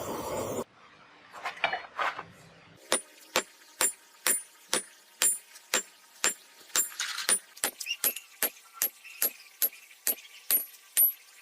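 Hammer blows on metal, about two a second, each sharp strike followed by a short high-pitched ring. A few softer, irregular knocks come first.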